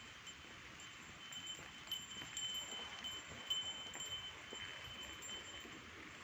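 Forest insects keep up a steady high-pitched ringing drone over a faint even hiss.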